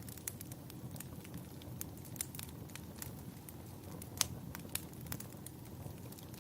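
Wood fire in a fireplace crackling: irregular sharp pops and snaps, one louder snap about four seconds in, over a steady low rumble.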